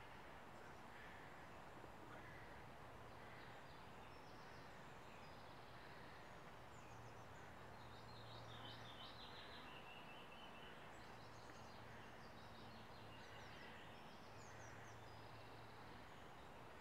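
Faint outdoor ambience with birds singing in quick runs of high chirping notes, over a steady hiss and a faint low hum.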